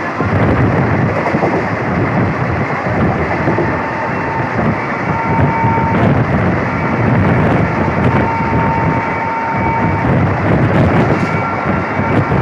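Passenger train running at speed: a loud steady rumble of wheels on track with wind buffeting the microphone. A faint high whine comes and goes.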